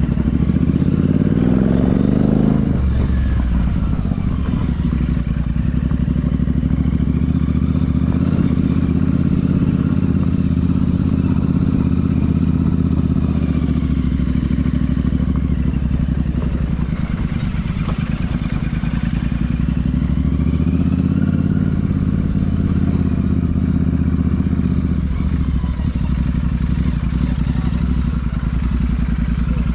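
Royal Enfield Super Meteor 650's parallel-twin engine and exhaust under way. The revs climb for the first couple of seconds, drop sharply about two and a half seconds in, then hold at a steady cruise.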